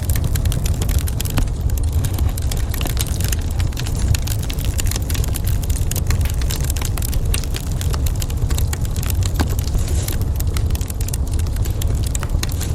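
Wood fire crackling in a fireplace, with frequent small sharp pops and snaps over a steady low rumble.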